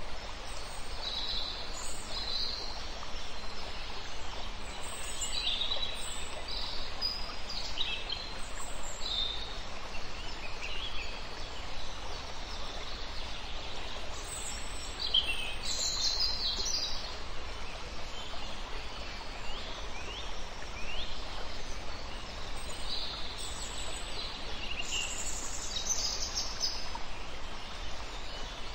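Wild birds chirping and whistling in short, scattered phrases over a steady background hiss of outdoor ambience.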